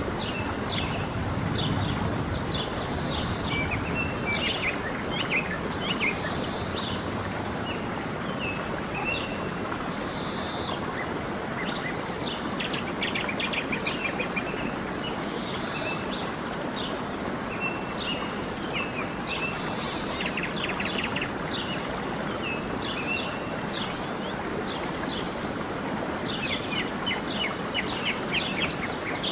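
Creek water flowing steadily, with many small birds chirping and trilling over it throughout.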